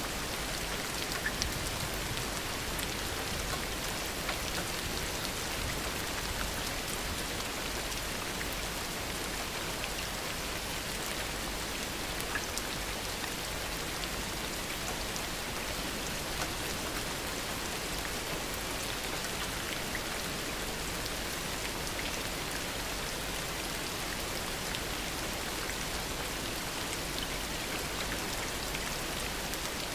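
Heavy rain falling steadily, an even hiss dotted with fine drop ticks, with no thunder heard.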